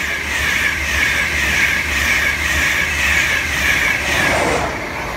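InterCity 225 express, Mark 4 coaches with a Class 91 electric locomotive at the rear, running through a station at speed: a steady rush of wheels on rail with a pulsing hiss, easing off near the end as the locomotive passes.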